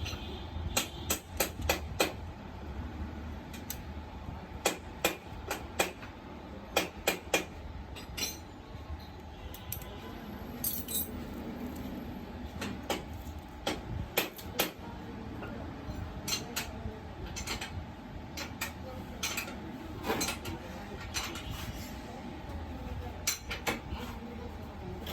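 Metal hand tools clinking and tapping in irregular sharp clicks, some in quick clusters, during valve tappet adjustment on a motorcycle engine.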